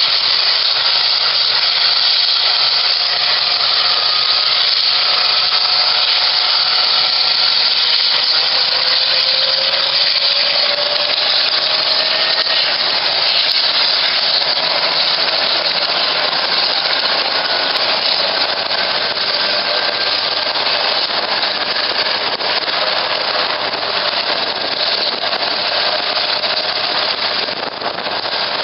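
Army Cougar twin-turbine helicopter running close by: a loud, steady turbine rush with faint whining tones that slowly shift in pitch.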